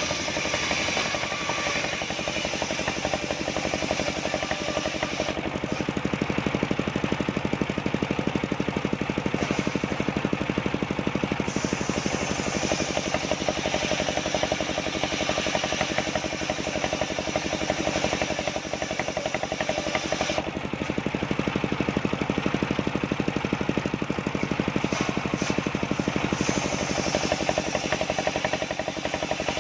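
Engine-driven homemade circular sawmill running steadily, its engine beating with a rapid even pulse while the rig saws sengon wood. Twice the higher hiss drops away for about six seconds, then returns.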